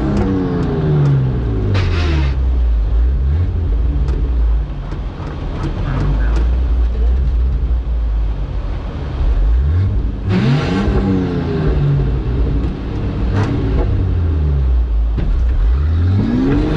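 Nissan Patrol's swapped-in Skyline engine revving up and down under hard off-road driving: the revs fall at the start, stay low for several seconds, climb sharply about ten seconds in, drop back, and climb again near the end. A few short knocks come through over the rough ground.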